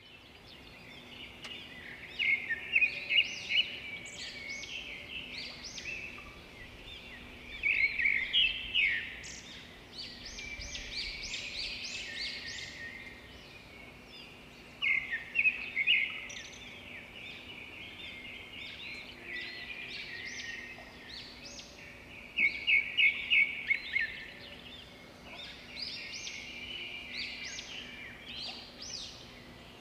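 Several birds calling and chirping outdoors, with a loud run of quick repeated notes every six or seven seconds; a faint steady low hum lies underneath.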